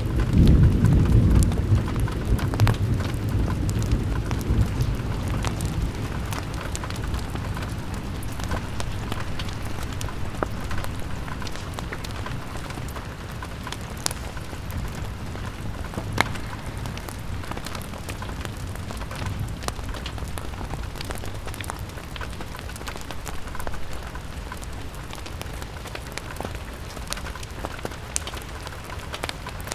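Steady rain on a window pane, scattered with sharp ticks and pops. A deep low rumble at the start dies away over the first several seconds.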